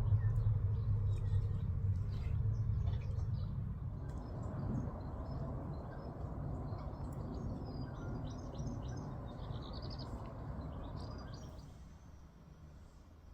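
Small birds chirping in quick, short high notes, busiest toward the end, over a low steady background rumble that fades away near the end.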